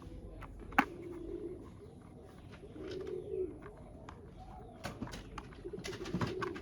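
Pigeon cooing in three low, warbling phrases, with scattered sharp clicks and knocks; the loudest click comes about a second in.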